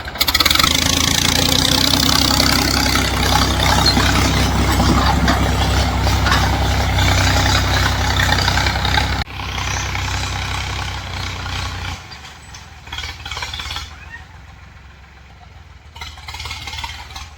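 Tractor engine running loudly. About halfway through it drops off suddenly, then it fades to a low level.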